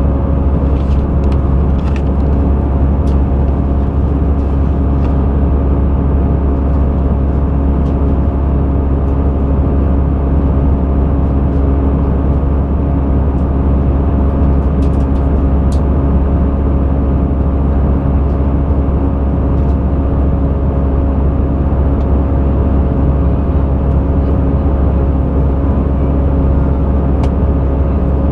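Steady cabin noise inside an Airbus A320: a constant drone of engines and rushing air, with a strong low hum and a few steady tones running through it. Faint clicks come now and then.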